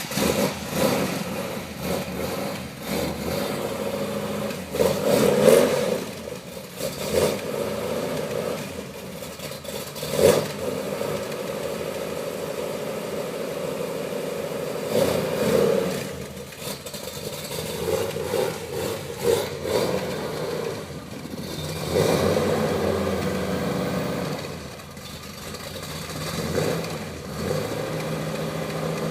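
1963 Chevrolet Corvette C2's 450 hp V8 running after a long, cold winter's storage, blipped several times with short revs over a steady idle.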